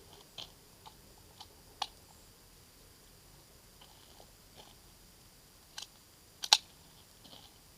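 Scattered small clicks and clacks of a USFA Zip 22 pistol and its magazine being handled and loaded for firing. The loudest, sharpest clack comes about six and a half seconds in.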